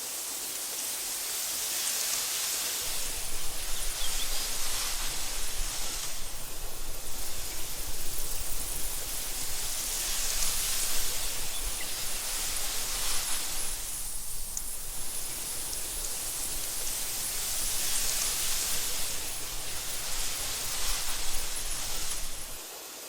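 Wind blowing through tall meadow grass, a steady rushing that swells into gusts and eases off every few seconds, with a low rumble beneath it that drops away abruptly near the end.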